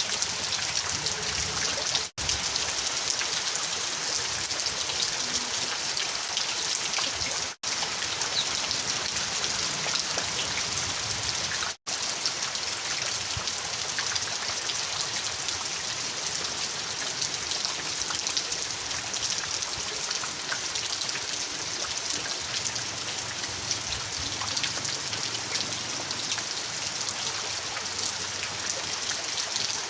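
Rain falling steadily, a dense patter of drops hissing on a surface. The sound cuts out three times for a split second in the first half.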